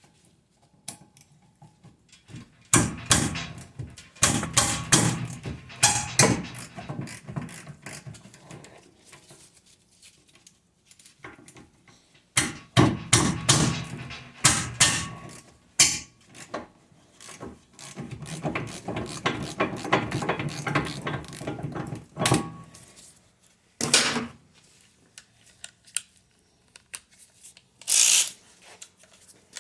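Bursts of metal scraping and clinking from hand tools working on a rusty brake caliper bracket, cleaning rust from where the pad hardware sits. The scraping comes in spells of a few seconds with short quiet gaps, and a few sharp clicks near the end.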